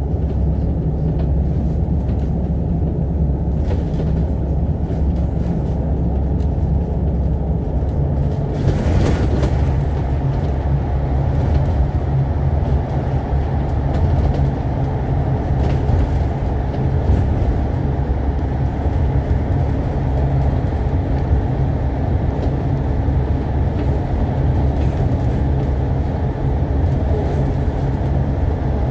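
Alexander Dennis Enviro500 MMC double-decker bus under way, heard from inside the passenger deck: a steady drone of engine and road noise. A brief hiss comes about nine seconds in.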